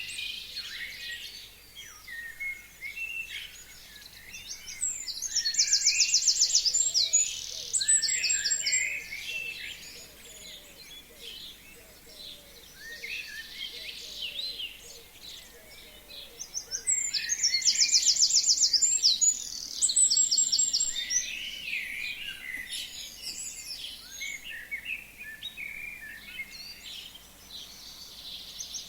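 Several forest songbirds singing and chirping. A loud song with a fast high trill comes twice, amid many shorter overlapping calls.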